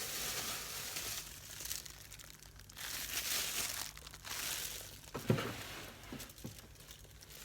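Crinkling and rustling in several bursts, like plastic or paper being handled, with a single knock about five seconds in.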